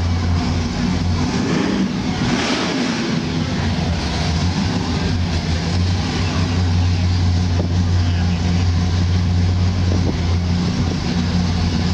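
Car engine idling with a deep, steady rumble, its sound briefly changing about two seconds in.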